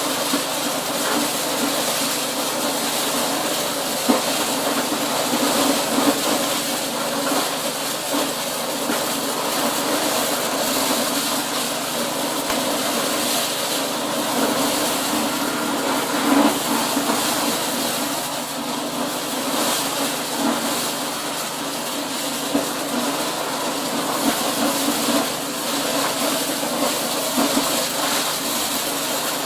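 Corn-processing machine running steadily under load, a constant mechanical drone with a dense clatter and a few louder knocks.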